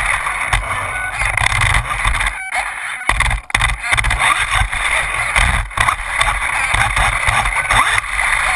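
Losi Mini 8ight electric RC buggy running on an indoor floor: a steady motor and drivetrain whir with tyre rumble, dipping briefly a couple of times about three seconds in.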